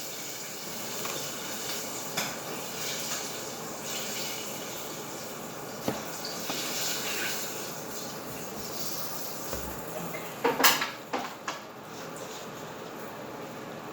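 Home kitchen cooking sounds: a steady hiss with an occasional light clink of dishes or utensils, then a quick run of louder clinks and knocks about ten and a half seconds in.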